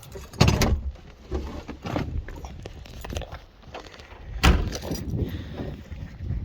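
Keys jangling and handling noise as a car door is worked, with a sharp knock about half a second in and the loudest slam, a car door shutting, about four and a half seconds in.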